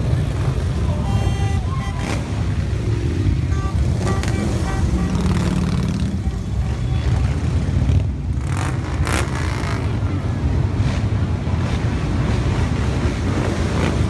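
Many motorcycle engines running close by, a steady low rumble of bikes riding past, with two sharp cracks about two-thirds of the way through.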